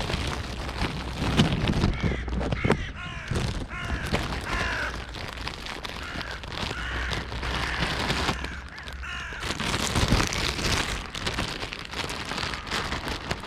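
Crows cawing, many harsh calls one after another through most of the stretch, over a steady low rumble.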